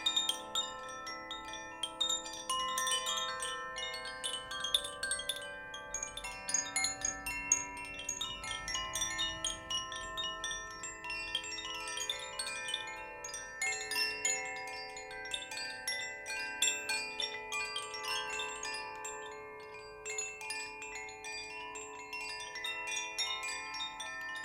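Chimes shaken and struck over and over, a dense shimmer of bright, overlapping ringing notes at many pitches.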